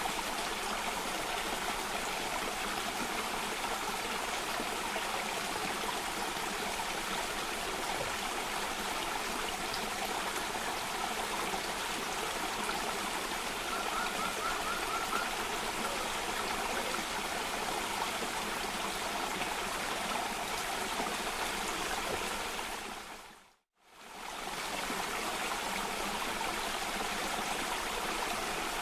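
Water of a cascading stream or small waterfall rushing steadily. About three-quarters of the way through it fades out to silence for a moment and fades back in.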